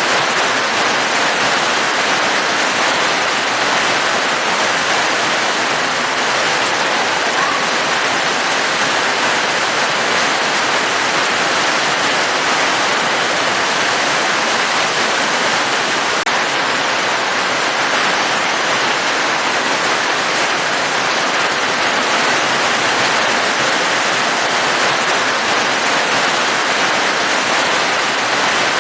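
Steady, even rain, an unbroken hiss with no single drops standing out.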